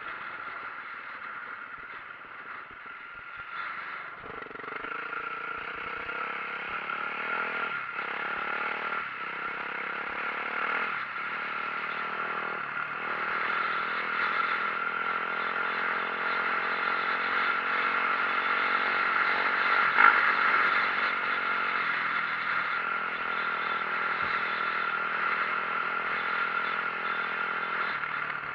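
2004 Yamaha YZ450F four-stroke single-cylinder dirt bike engine running under way, its pitch changing several times as the throttle and gears change, with rattling from the ride and a sharp knock about two-thirds of the way in.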